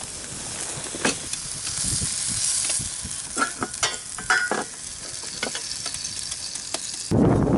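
Steak sizzling in a skillet, a steady frying hiss with occasional short clicks and taps. About seven seconds in, a louder, lower rumbling noise abruptly takes over.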